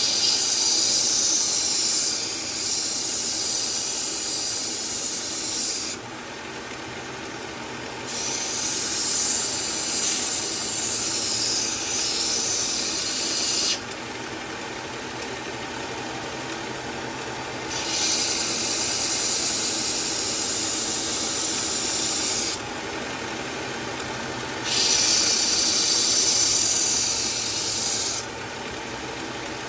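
Kitchen knife blade ground on a running belt sharpener: four long passes of grinding hiss over the steady hum of the belt machine's motor. The blade is being taken down to a new 17-degree edge.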